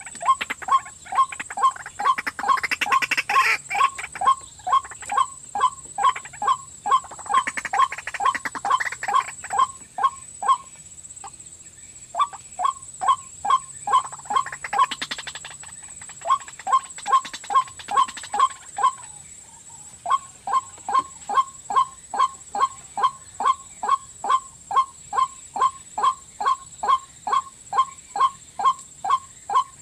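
White-breasted waterhen calling: a long monotonous run of short repeated notes, about two to three a second, broken by a few brief pauses.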